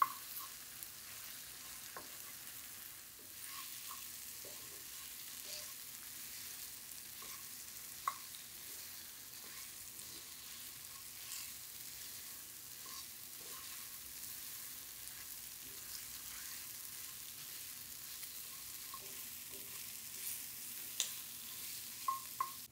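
Ghee roast masala frying in a cast-iron pan: a steady sizzle, with a spoon stirring and a few sharp taps, the loudest about eight seconds in and several near the end.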